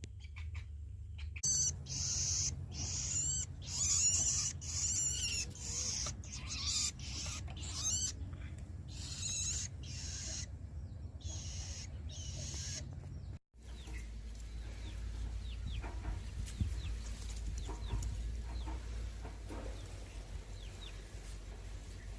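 Nestling birds giving high-pitched, rapidly fluttering begging calls in repeated runs of about a second each, which break off suddenly about 13 seconds in; after that only faint scattered chirps are heard over a low steady hum.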